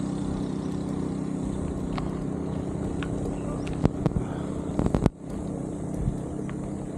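A motorcycle engine running at a steady speed while riding, with a few sharp clicks about four to five seconds in and a sudden brief dip in loudness right after.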